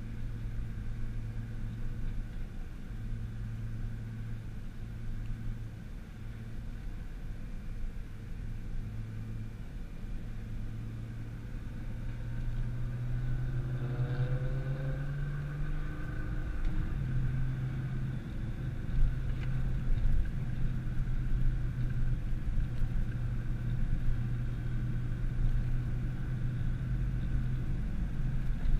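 Nissan GT-R engine droning steadily over tyre and road noise while driving. About halfway through, the engine revs up in a rising pitch and then drops back, and it runs louder after that.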